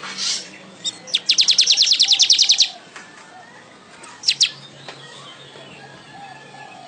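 Weaver bird (manyar) singing: a short rasping note, then a loud fast rattle of about fifteen high notes lasting a second and a half, then a quick double note.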